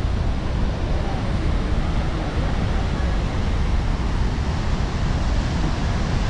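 Steady rushing of the flooded Penna River, with wind rumbling on the microphone.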